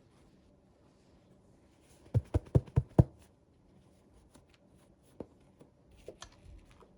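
Hands handling small toys and their packaging: a quick run of five sharp taps about two seconds in, then a few light clicks and rustles.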